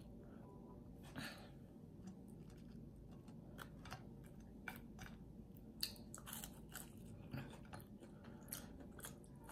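Close-miked chewing of crispy battered onion rings: faint, irregular crunches with wet mouth sounds between them.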